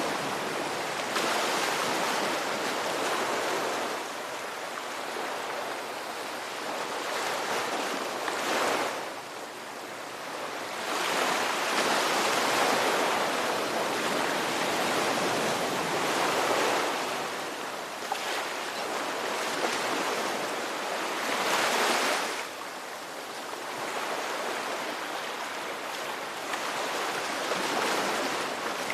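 Ocean waves breaking and washing on a shore: a continuous hiss of surf that swells and eases, with stronger surges of breaking water every few seconds.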